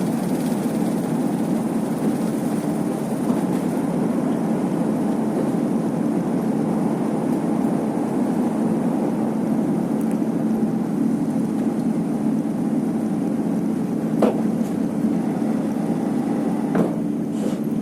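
Steady noise of an Airbus A350-900 and its Rolls-Royce Trent XWB engines, an even rumble with a faint steady hum in it. Two short sharp clicks come near the end.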